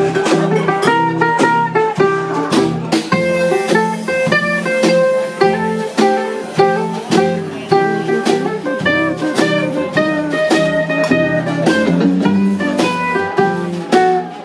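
Instrumental blues introduction played by a band on acoustic guitars and other plucked strings, with a steady rhythm under single-note lead lines.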